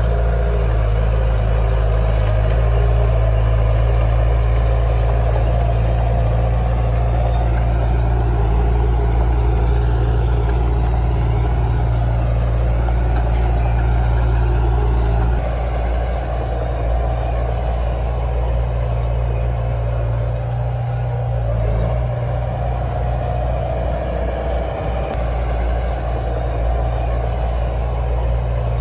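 Heavy diesel engine running steadily, with a slight drop in level about halfway through.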